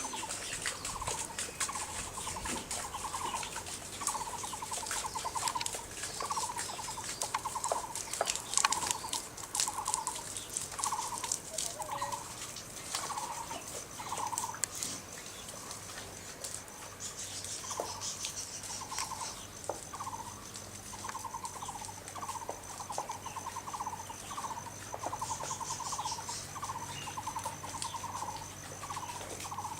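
An animal calling over and over in short, rattling notes, about one every 0.7 seconds, with a pause of a few seconds midway. From about halfway a thin, steady, high-pitched insect-like tone joins in.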